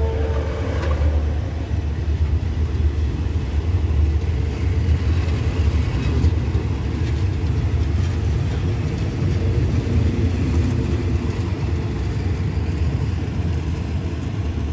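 Passenger coaches of an express train rolling past and pulling out of the station: a steady low rumble of wheels on the rails.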